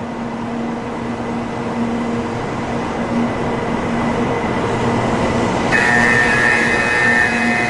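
Shinkansen high-speed train running with a steady rumble and hum. About six seconds in, a high squeal of several tones starts suddenly over it.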